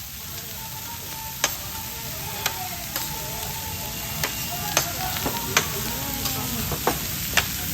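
Pork belly sizzling on a hot iron plate, a steady frying hiss broken by about eight sharp clicks at irregular intervals.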